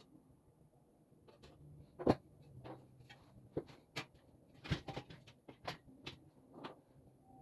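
Irregular clicks and light knocks, about a dozen, from parts and hardware being handled during assembly; the loudest knock comes about two seconds in.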